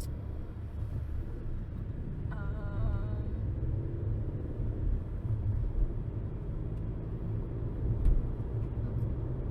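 Steady low road and engine rumble of a moving car, heard inside the cabin, with a couple of light thumps from bumps in the road.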